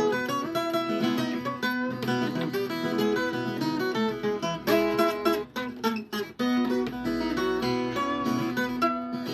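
Viola caipira, the Brazilian ten-string folk guitar, playing an instrumental passage. It picks a melody over chords, with a few strummed chords around the middle.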